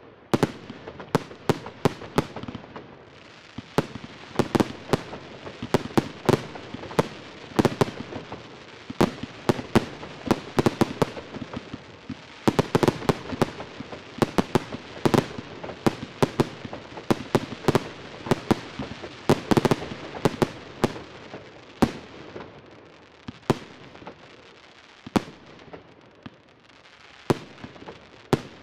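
Fireworks display: many sharp bangs of bursting aerial shells in quick, irregular succession, thickest in the middle and fewer near the end.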